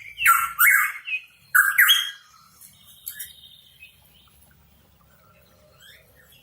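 Pitohui calling: two pairs of loud, harsh, upward-sweeping notes in the first two seconds, followed by a few faint chirps and then a quiet stretch.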